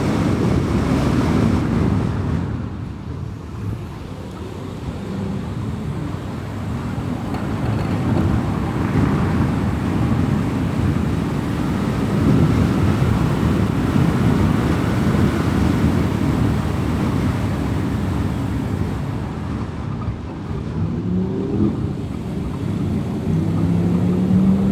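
A car driving along, with steady tyre and road rumble and engine noise. The level dips for a moment a few seconds in, and near the end a rising engine tone comes in as the car speeds up.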